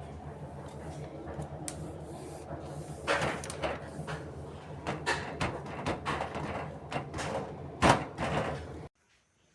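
A series of knocks and clatters over a steady low hum, cutting off abruptly near the end.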